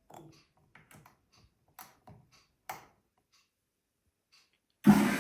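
A handful of light clicks and taps spaced over the first few seconds, then near the end a sudden loud start of a steady machine hum with a rushing hiss.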